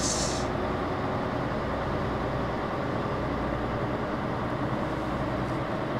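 Running noise inside the cabin of a KTR8000 'Tango no Umi' diesel railcar under way: a steady low rumble that stays even throughout.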